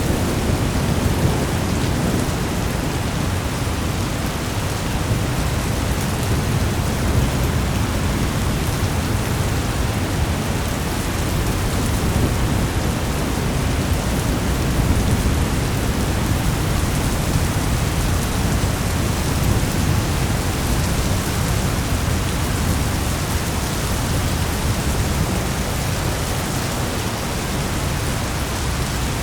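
Steady, dense rain with a low rumble of thunder underneath, played as a thunderstorm ambience track.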